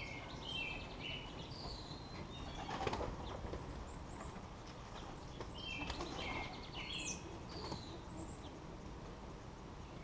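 Pigeons' wings flapping in short bursts, about three seconds in and again around six, with small birds chirping in short high notes throughout.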